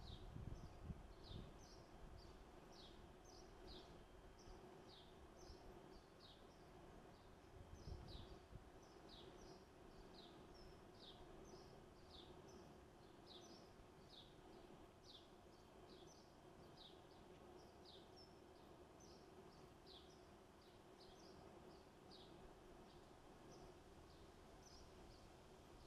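Faint, steady chirping from a small bird: short high notes, each sweeping down, about two a second without pause. A low steady hum sits underneath, with brief low rumbles near the start and about eight seconds in.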